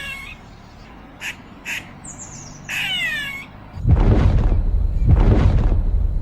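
Harsh bird squawks, each falling in pitch, with a few short clicks between them. About four seconds in, the sound switches abruptly to a loud low rumbling that swells and fades about once a second.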